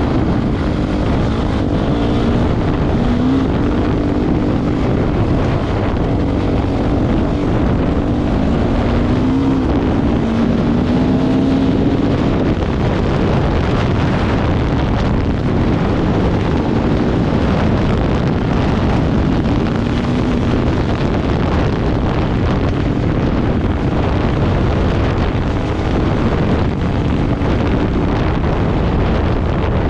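Off-road motorcycle engine running under load, its pitch rising and falling as it revs, with wind noise on the microphone.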